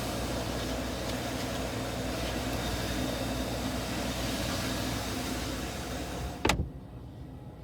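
Steady hiss and hum of the open air around the car. About six and a half seconds in, a car door slams shut once, and the hiss drops away at once, leaving only a low hum.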